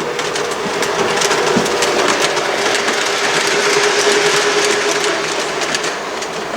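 Lionel O-gauge Rio Grande Ski Train set running on its track: the locomotive's electric motor hums at a steady pitch while the wheels rattle and click over the rails, growing a little louder toward the middle and easing off near the end.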